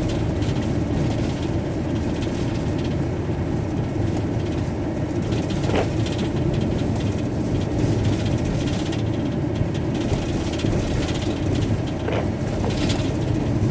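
Steady engine and tyre noise of a van driving on wet roads, heard from inside the cab.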